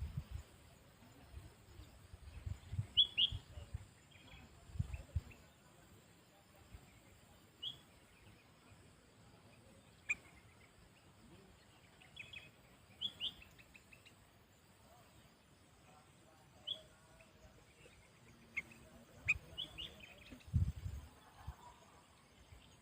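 Sooty-headed bulbul (kutilang) giving short, sharp chirps every second or two, some in quick pairs. A few low rumbling bumps come a few seconds in and again near the end.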